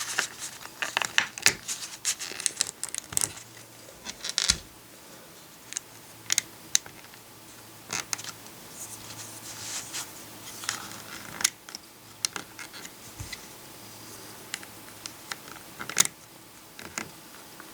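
Plastic LEGO pieces clicking and tapping as small frog ornaments are pressed onto jumper plates: a cluster of clicks in the first few seconds, then scattered single clicks.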